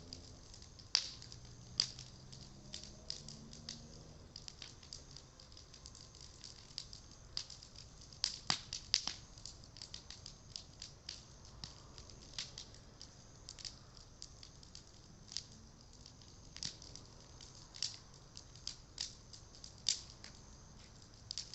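Cedar-wood bonfire crackling, with irregular sharp pops and a cluster of louder ones about eight seconds in.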